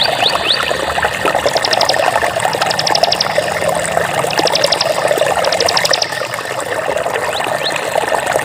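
Flowing water runs steadily. Over it come high, repeated rising chirps at the start and near the end, and four short, rapid trills between about one and six seconds in.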